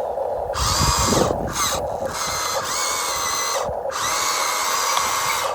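Electric motors of a Huina 1592 RC excavator whining as it works, in runs that stop and restart several times with the pitch gliding up and down. A low rumble comes about a second in.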